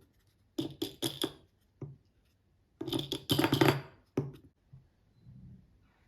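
Small hard toy pieces being handled and set down, giving clusters of quick clicks and taps. The densest run comes about three seconds in, and the taps thin out near the end.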